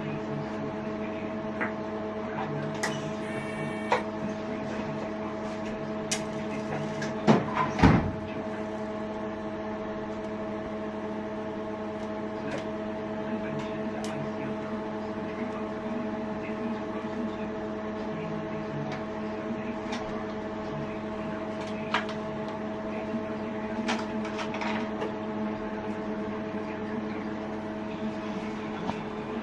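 A machine hums steadily with several fixed tones throughout, with occasional sharp clicks and knocks. The loudest is a cluster of knocks about seven to eight seconds in.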